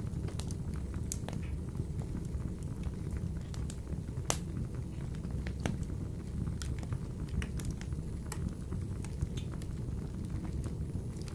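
Wood fire burning in a wood-burning stove: a steady low rumble of flames with scattered sharp crackles and pops, the loudest pop about four seconds in.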